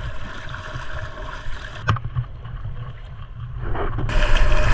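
A boat motor running steadily with a low, unsteady rumble of wind on the microphone and a sharp click about two seconds in.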